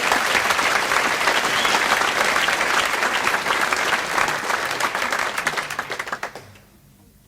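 Concert audience applauding and cheering, which dies away about six and a half seconds in.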